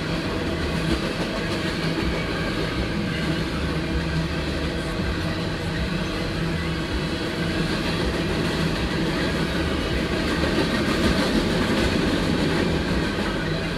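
Empty coal train rolling past steadily, its empty cars running on the rails with a continuous low hum underneath.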